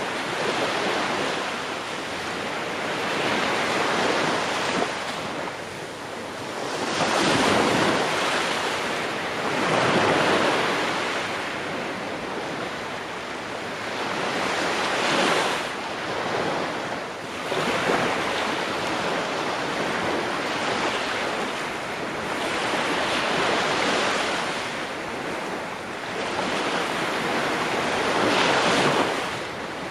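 Ocean waves breaking and washing on a shore, a continuous surf hiss that swells and ebbs every few seconds.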